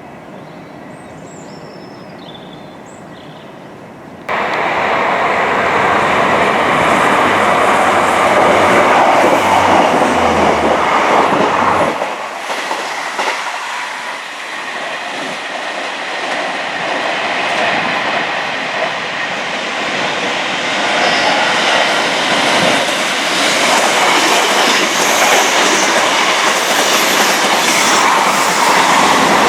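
A train passing close by, with the rumble and clatter of its wheels on the rails. The sound jumps up abruptly about four seconds in and stays loud to the end, easing briefly in the middle.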